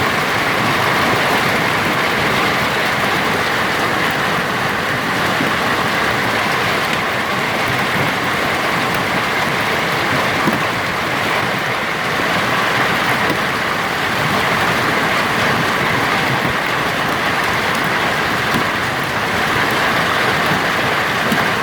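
Hail and heavy rain falling in a dense, steady hiss, with a constant patter of small strikes.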